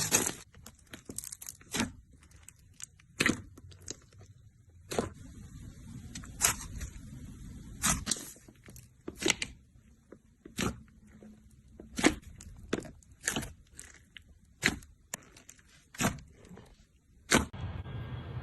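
Slime being squeezed and poked by hand, giving sharp crackling pops roughly once a second at irregular intervals, with soft squishing between them. Near the end a steadier low noise comes in.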